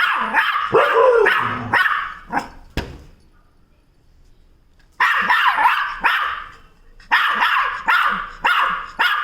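Spitz dog barking in quick runs of sharp barks, with a pause of about two seconds partway through before the barking starts again.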